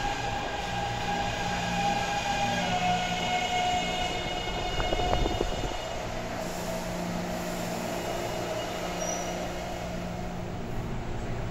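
Taipei Metro train running with the whine of its traction inverter and motors: several steady tones that step down in pitch about two and a half seconds in and then keep sinking, over a low running rumble, with a short cluster of clicks about five seconds in. The falling pitch marks the train slowing.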